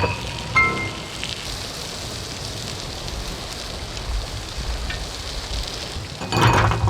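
Makchang and vegetables sizzling on a hot camping grill, a steady crackling hiss, with a brief clatter near the end.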